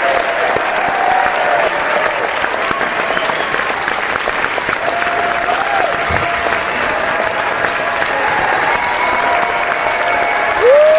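A large crowd applauding steadily, a dense continuous patter of many hands clapping. Brief pitched calls from the crowd rise above it now and then, with a louder one near the end.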